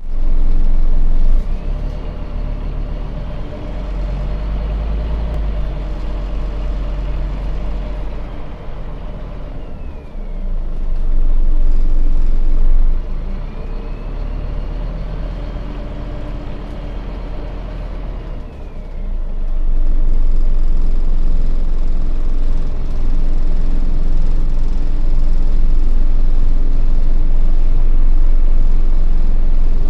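Scania bus engine running as the bus drives, heard from on board: a steady low drone that swells louder around the middle and again through the last third as the bus accelerates, with a higher whine that twice rises and then falls in pitch.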